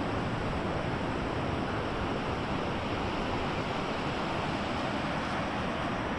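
Surf breaking on a sandy beach, a steady unbroken wash of wave noise, with wind buffeting the microphone.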